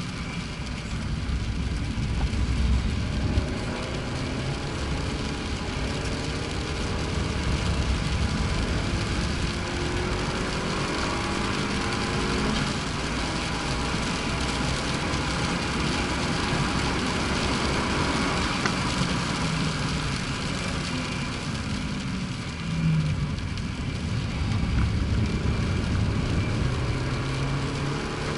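Turbocharged Abarth four-cylinder engine driven hard on a circuit, its pitch climbing and dropping again and again as it revs out and changes gear, over a constant rush of road and wind noise.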